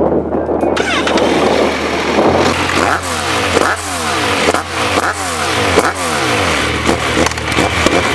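Kawasaki Z1000's inline-four engine through an Akrapovic exhaust, revved over and over in quick throttle blips, each rising and falling in pitch, from about three seconds in.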